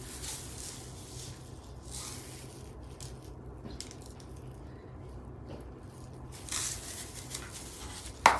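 Faint kitchen handling sounds over a low steady hum, with one sharp knock near the end.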